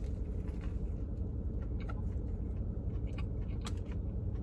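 Someone biting into and chewing a crispy fried chicken sandwich: scattered short crunches, the sharpest about three and a half seconds in, over a steady low hum.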